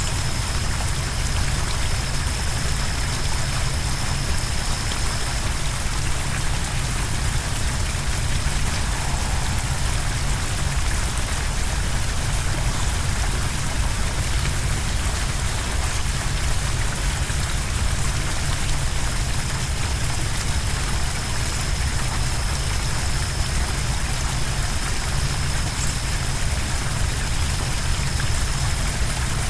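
Steady roar of a large waterfall, the Sioux Falls: heavy water pouring and crashing without a break, strongest in the low end. A thin, steady high tone rides above it for the first few seconds and again over roughly the last ten.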